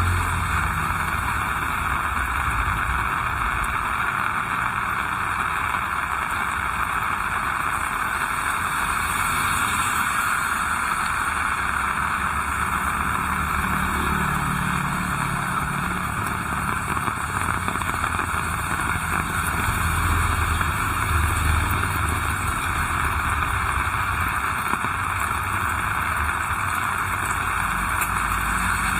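Heavy rain falling steadily in a constant hiss, with the low rumble of passing motor vehicles rising and fading, most noticeably near the middle and about two-thirds through.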